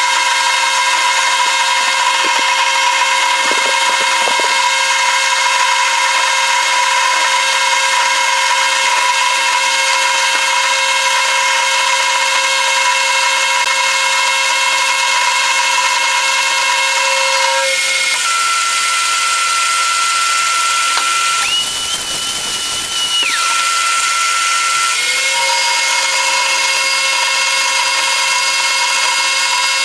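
Electric power tool motor running steadily with a high whine. Its pitch shifts at about 18 seconds, changes again briefly around 22 seconds, and returns to the first pitch near 25 seconds.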